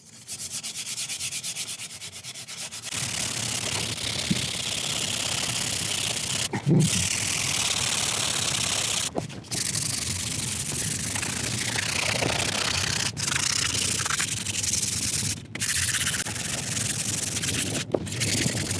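Sandpaper scrubbing over the wooden chair seat, with a few brief breaks, taking down the raised ridges of wood along the cracks.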